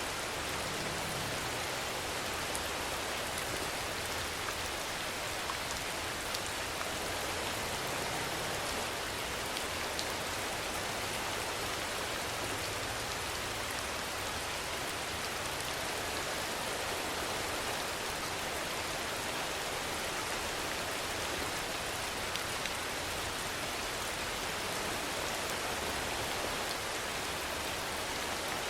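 Steady rainfall: an even hiss of rain on a surface, with a few sharper drop ticks here and there.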